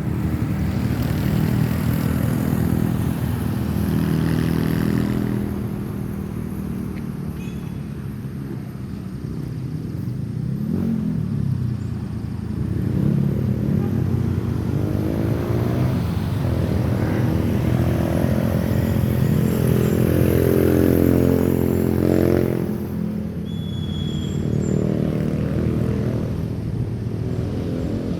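Vehicle engine running under changing load, its pitch rising and falling again and again, over steady road noise.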